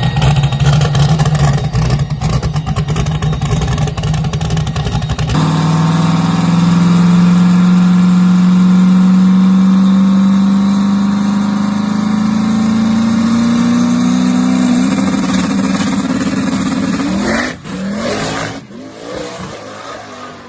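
Drag racing car's engine: a loud, rough rumble, then about five seconds in it launches and pulls hard down the track, its pitch climbing steadily for about ten seconds before the driver lifts off near the end.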